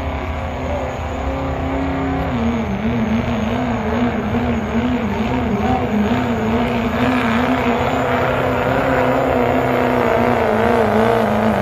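Diesel pickup truck engine held at full throttle under heavy load while pulling the sled, a steady drone whose pitch wavers slightly and which grows a little louder toward the end, with a faint high whistle above it.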